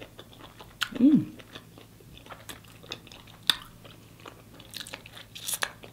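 Close-up chewing of a crispy baked chicken wing: scattered crunches and wet mouth clicks, with a brief 'mm' hum about a second in.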